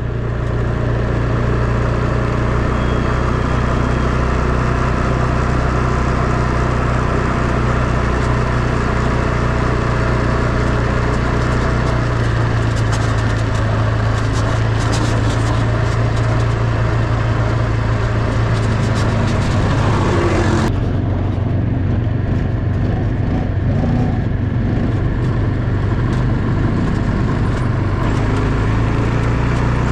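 Quad bike engine running steadily under way, a constant low engine note under a layer of rushing hiss. About two-thirds of the way through, the higher hiss drops away abruptly and the engine note carries on.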